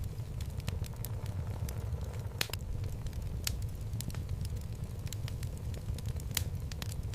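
Wood logs burning in a home fireplace: a steady low rumble of flames with irregular sharp crackles and pops from the wood. Two louder pops stand out, about two and a half seconds in and near the end.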